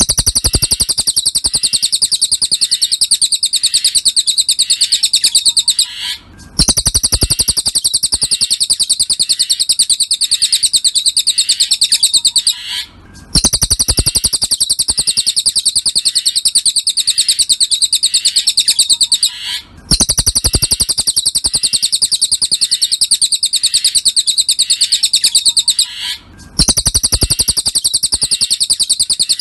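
Cililin song: a very fast, high-pitched trill of rapidly repeated notes, held for about six seconds at a time and broken by brief pauses four times, as in a looped masteran training recording.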